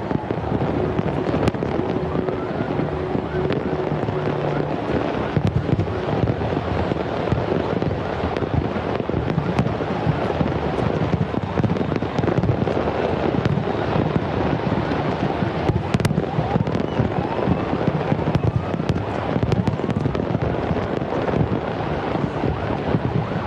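Fireworks display going off: a dense, continuous run of bangs and crackles with no pauses.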